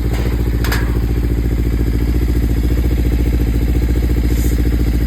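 2017 Kawasaki Ninja 300's parallel-twin engine idling steadily, run right after a coolant flush so the fresh coolant is drawn through the engine and trapped air bubbles work out of the cooling system.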